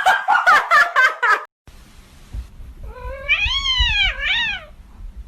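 Cat meowing: one long meow that rises and then falls in pitch, quickly followed by a shorter one, over a low background hum. Before it, a burst of loud, rapidly repeated cries breaks off suddenly.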